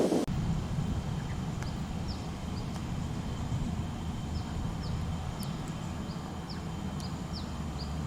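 A bird calling in a series of short, high chirps, about two a second, over a low steady rumble.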